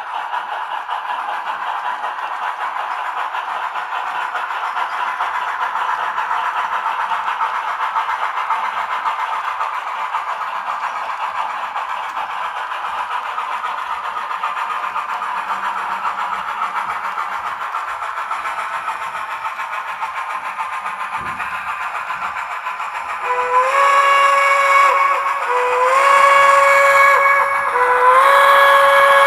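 Steam locomotive sound from an HO scale model's DCC sound decoder, heard through its small onboard speaker. A steady hiss of the running steam sound plays first. About three-quarters of the way in, the steam whistle gives three blasts, each sliding up slightly into pitch, and the last is still sounding at the end.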